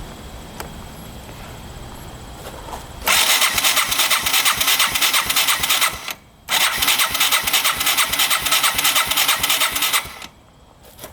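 Electric starter cranking the 1985 Yamaha 225DX's single-cylinder four-stroke engine in two attempts of about three seconds each, with a short pause between, and the engine not catching. This is a first start attempt after an engine rebuild.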